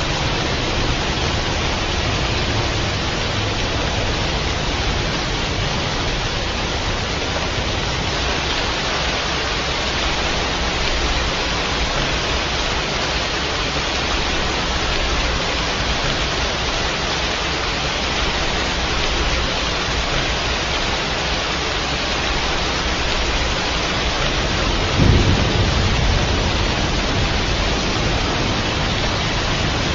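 Steady, dense rain falling, with a sudden low rumble of thunder late on that fades over a few seconds.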